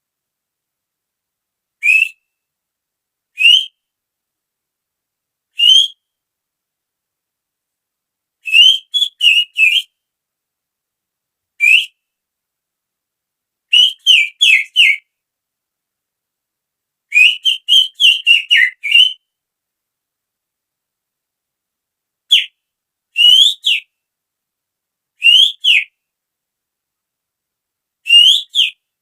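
Human finger whistling that imitates the call of a female oriental magpie-robin (kacer): short, high, upward-sliding whistled notes, some alone and some in quick runs of three to six, with silent gaps between.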